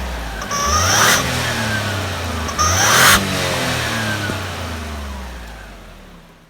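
Daihatsu EF-DET 660 cc turbocharged three-cylinder engine revved up sharply twice, each rev ending in a brief rush of air, with the revs falling slowly away after the second. The sound fades out near the end.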